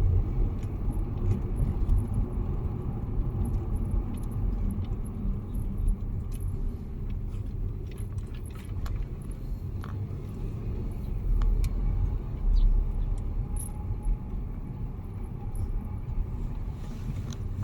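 Road noise inside a moving car: a steady low rumble of tyres and engine, with light scattered clinking rattles.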